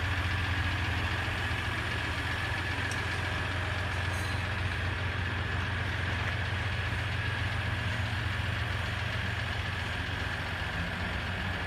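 Ram 1500 EcoDiesel's 3.0-litre V6 turbodiesel idling steadily, a low even rumble with a faint steady high whine above it.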